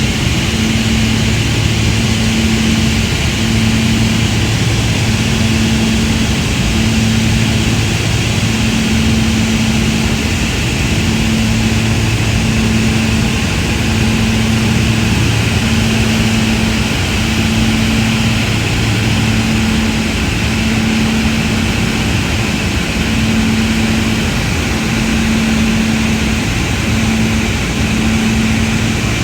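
Steady, loud aircraft engine and airflow noise heard from on board, with a low hum that breaks briefly every second or two.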